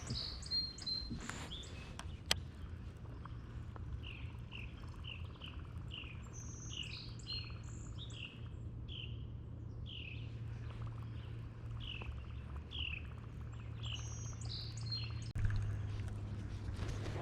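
Wild songbirds singing: one bird repeats a short downslurred whistle every half second or so, while higher quick chirps from another bird come at the start, in the middle and near the end.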